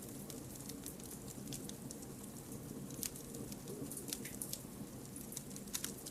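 Firewood burning in a campfire, crackling with many irregular sharp pops and snaps over a steady low rush of the flames. A few louder snaps come about three seconds in and near the end.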